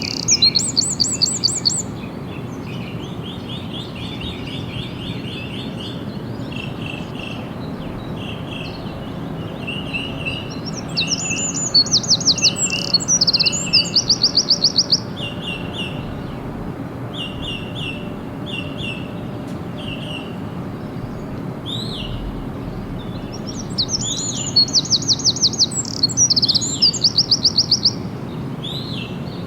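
Birds singing: a loud, fast high-pitched trill comes in three bouts, at the start, about halfway through and again near the end, while lower short repeated phrases carry on through much of the first two-thirds, over a steady low background rumble.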